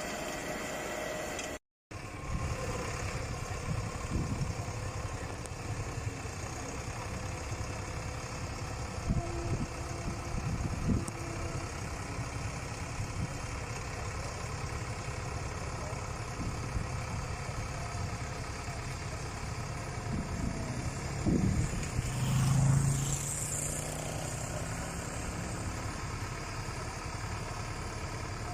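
Rubber-track crawler tractor's engine running steadily, with a few louder knocks and a brief swell about three-quarters of the way through. The sound cuts out for a moment about two seconds in.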